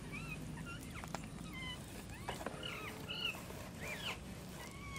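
Birds chirping in short, scattered calls, with a few light clicks.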